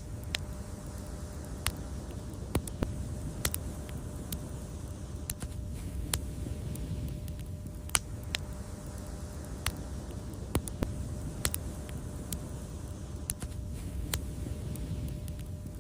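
Wood fire crackling: irregular sharp pops and snaps, a few a second, some louder than others, over a steady low rumble of the burning fire.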